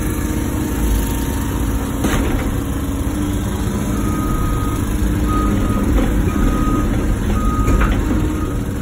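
Excavator diesel engine running steadily, with a vehicle's reversing alarm beeping in an even on-off pattern starting about four seconds in.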